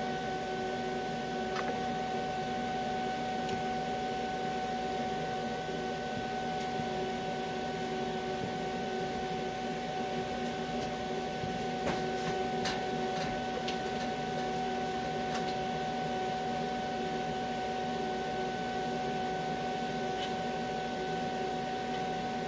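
TIG welding arc on aluminum, run on DC electrode positive: a steady buzzing hum with a few faint crackles.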